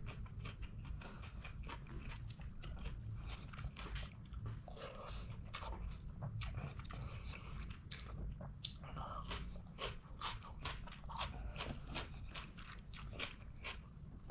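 Close-up eating sounds: chewing, wet lip smacks and crunches of rice and curry eaten by hand, with raw onion among the food, in a steady run of short clicks and crackles.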